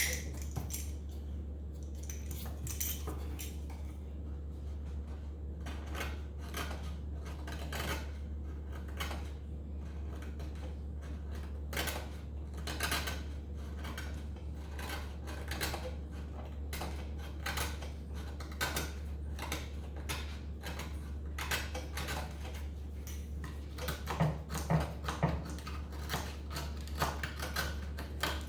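Blade cutting and scraping through old hardened glue and felt at the end of a wooden piano keystick, lifting off a damper felt: a string of small clicks and scrapes, with a few louder ones near the end.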